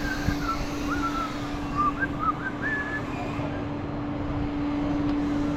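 Tow truck's engine running steadily with a constant low hum. A few short, high, warbling chirps sound over it in the first three seconds.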